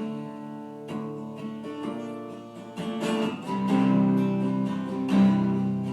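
Acoustic guitar strummed in a slow rhythm, its chords ringing: an instrumental passage between sung verses.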